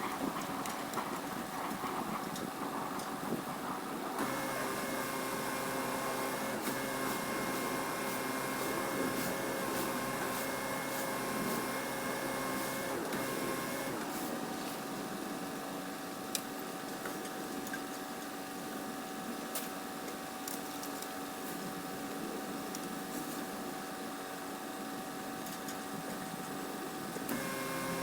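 A machine motor running steadily with a droning hum, shifting pitch a few times, with scattered light clicks.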